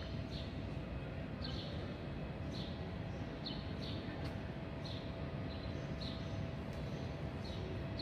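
A small bird chirping over and over, short high notes that each drop in pitch, about once or twice a second, over a steady low rumble and a faint steady hum.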